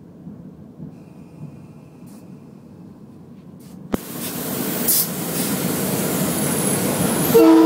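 Train running through a rail tunnel, heard from on board. At first there is a low, quiet rumble. About halfway through a sharp click comes, and then the rushing noise of the train in the tunnel is suddenly much louder.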